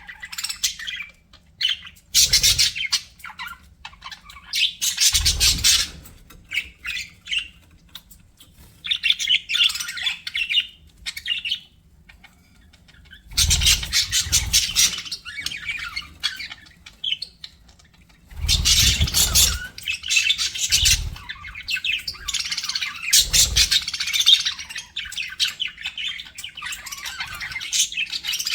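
Budgerigars chattering and warbling, several birds in bouts of rapid, high-pitched chirps and squawks broken by short pauses.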